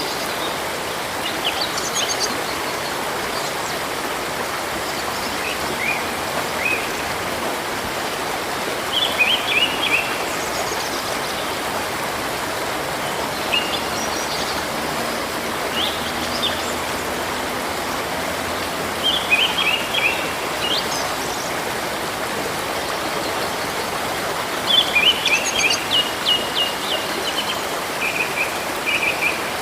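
A river running steadily, with small songbirds chirping over it in short bursts of quick high notes every few seconds.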